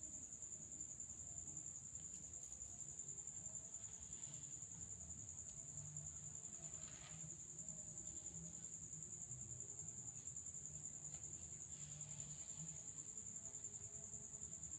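Cricket trilling, one steady unbroken high-pitched trill.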